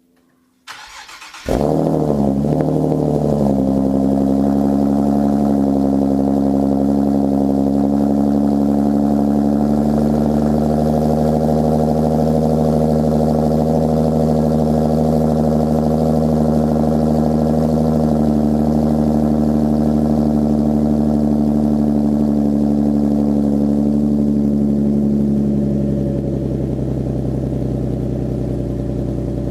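Nissan 370Z's 3.7-litre V6 through a Motordyne Shockwave exhaust, cold-started: a brief crank about a second in, then it catches, flares up and settles into a steady fast cold idle. Near the end the idle drops a little and gets quieter.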